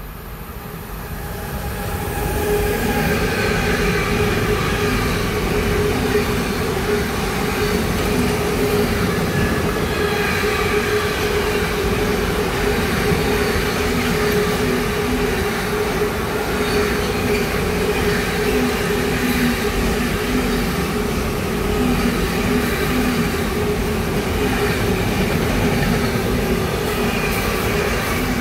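Train running past on the line: the sound swells over the first two seconds, then holds steady with a constant whine over a rolling rumble.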